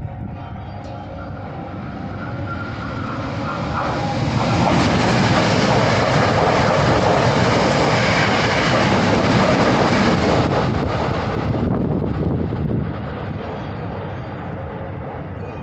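Hankyu electric train running through the station platform without stopping: the rush of wheels on rail and moving air swells over the first few seconds, is loudest for about seven seconds in the middle, then falls away.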